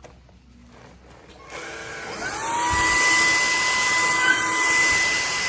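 JELLYPIG cordless stick vacuum switched on about a second and a half in, its motor spinning up with a rising whine, then running steadily on setting 2 with a high whine and airy hiss.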